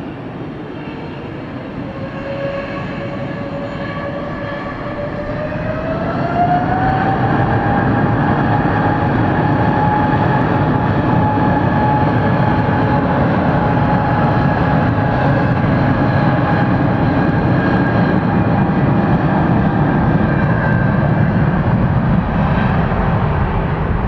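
Boeing 777's jet engines spooling up to takeoff thrust: a whining tone climbs in pitch about five to seven seconds in as the rumble grows louder, then both hold steady.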